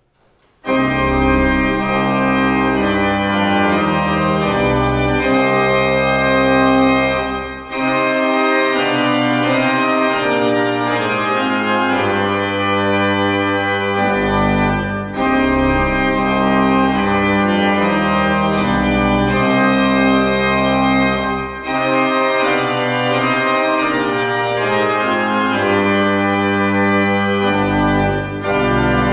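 Organ music in held chords over a moving bass line, starting about half a second in, with short pauses between phrases about every seven seconds.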